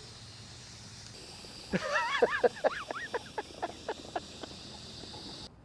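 Steady hiss of steam from a miniature live-steam locomotive, starting about a second in and cutting off suddenly near the end. In the middle, a quick run of short squeaky chirps rises and falls in pitch.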